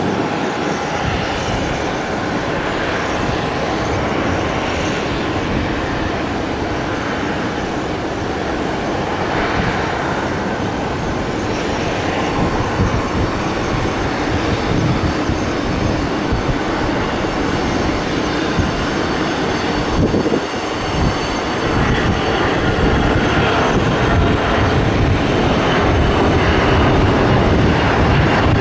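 An airliner's engines making a steady, loud rush of noise with a faint high whine; it grows slowly louder over the last third.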